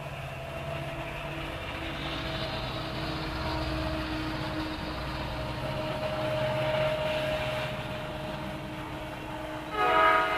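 A Norfolk Southern freight train passing close by: the diesel locomotives' engines run with a low hum and a steady whine that grows louder as the units go by. Near the end a sudden loud, shrill tone made of several pitches cuts in.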